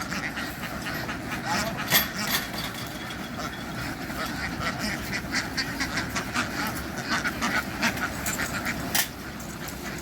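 A large flock of domestic ducks quacking, many short overlapping calls, with one loud call about two seconds in.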